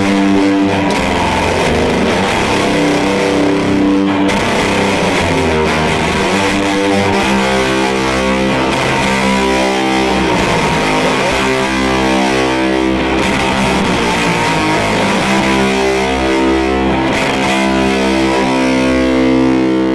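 Electric guitar played through an EarthQuaker Devices Fuzz Master General fuzz pedal, set to its second setting, into a Fender Deluxe Reverb amp. Heavily fuzzed, sustained chords and riffs, loud and unbroken.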